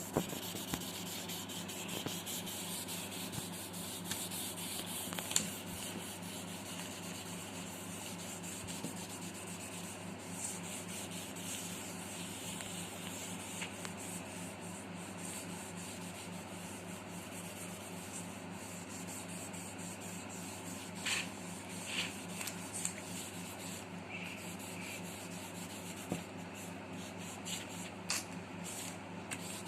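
Pencil graphite shading on paper, rubbed back and forth in quick, even strokes, with a few sharper taps of the pencil in the second half.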